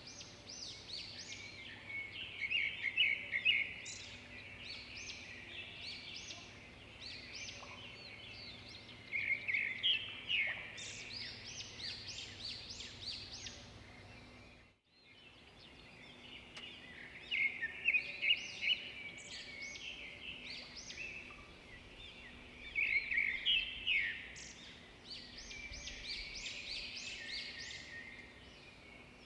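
Songbirds chirping and twittering in bursts of quick high notes over a faint steady background hiss. The sound drops out for a moment about halfway through, then the chirping starts again.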